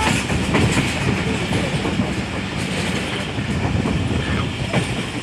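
Passenger train running along the track, heard from inside a moving carriage: a steady rumble and rush of the wheels on the rails, with a few light knocks.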